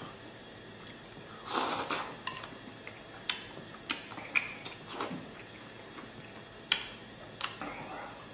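Scattered sharp clicks and clinks of utensils against a pot and bowl, a handful of them spread over several seconds, with a short wet, noisy rustle about a second and a half in.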